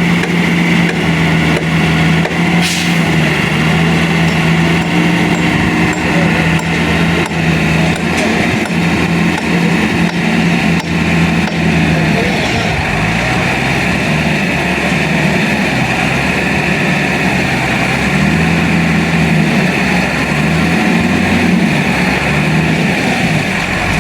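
Motor vehicle engine running steadily. Its low hum fades about halfway through and comes back strongly near the end.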